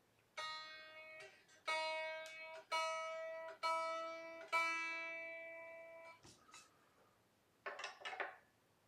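A single string on an unplugged 1997 Squier Jagmaster electric guitar plucked five times, about a second apart. The same note rings and decays each time, the last pluck ringing longest. The string is being checked and tuned back to pitch after its saddle height was lowered during an action setup. A few light handling clicks follow near the end.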